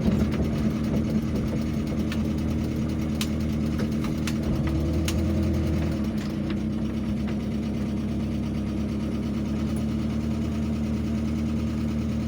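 Vehicle engine idling steadily, with a few scattered sharp clicks over it.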